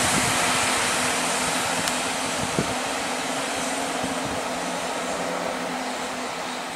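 Class 166 diesel multiple unit running away along the track, its steady diesel engine drone and wheel-on-rail rumble slowly fading as it recedes, with a light click from the wheels about two and a half seconds in.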